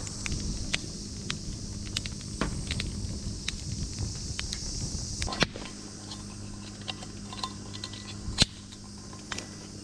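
Wood fire crackling, with irregular sharp pops over a steady hiss; the two loudest pops come about five seconds in and near the end.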